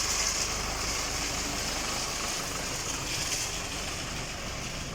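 Tractor engine running steadily, driving a PTO-powered transit concrete mixer, with a constant machinery noise.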